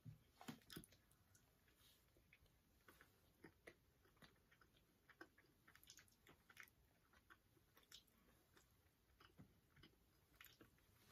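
Faint chewing of a cookie: scattered small crunches and mouth clicks, a few slightly louder ones about half a second in.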